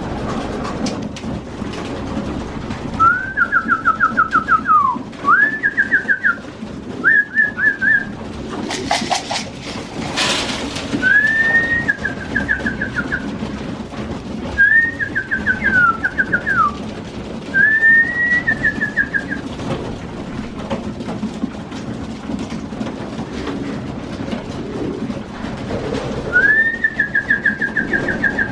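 Racing pigeons feeding, with a steady low cooing from the flock. About eight trilled whistles ring out over it, each a second or two long, and a short burst of noise comes about nine seconds in.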